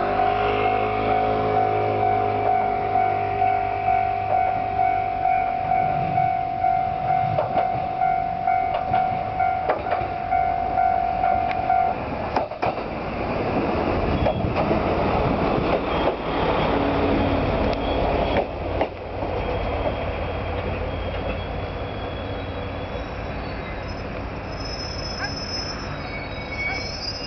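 KiHa 220 single-car diesel railcar rolling in past the platform at close range, its wheels clicking over rail joints, then slowing to a stop with a faint brake squeal and its diesel engine idling. For the first twelve seconds a ringing warning tone pulses about twice a second, stopping as the train draws in.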